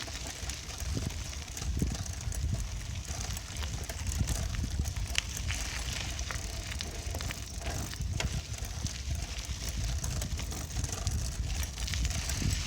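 Riding a bicycle: wind buffets the microphone in a steady low rumble, over a run of irregular small clicks and crackles from the bike rolling over a rough surface.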